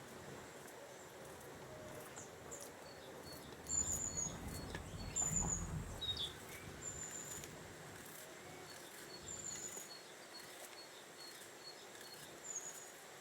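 Small birds chirping, short high falling chirps repeated about once a second over faint outdoor background noise. About four to six seconds in, a few soft knocks and rustling rise louder for a moment.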